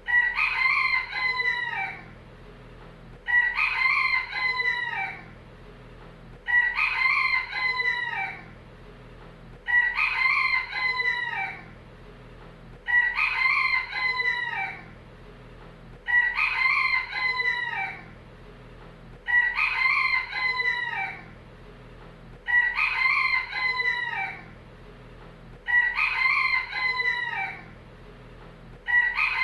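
A rooster crowing cock-a-doodle-doo over and over, the same two-second crow repeating evenly about every three seconds. A faint steady low hum lies beneath.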